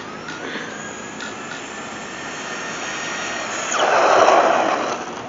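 Electric motor of a radio-controlled car whining, its pitch rising slowly as it speeds up, loudest about four seconds in with a rush of noise, then falling away.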